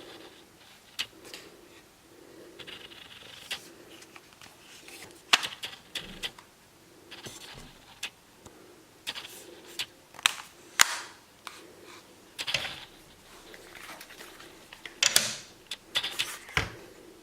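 Handling noises from a Tokyo Marui MP7 gas-blowback airsoft rifle: sharp clicks and knocks at irregular intervals with short scraping and rustling between them. The loudest clicks come about five seconds in and just before eleven seconds, with a quick cluster near the end.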